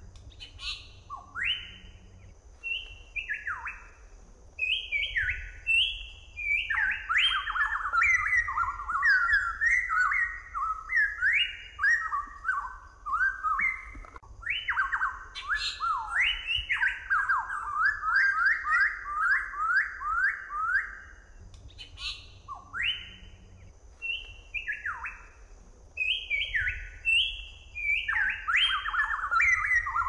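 Pitohui singing: fast runs of clear, sliding whistled notes, often overlapping, broken by a few short pauses.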